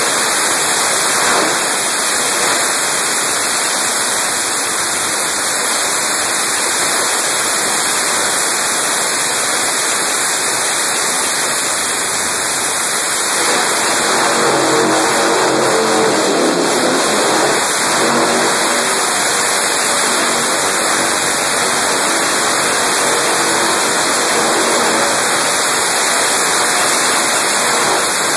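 Harley-Davidson Dyna Wide Glide's V-twin engine running loud and harsh as the sidecar rig circles, its pitch rising and falling with revving about halfway through.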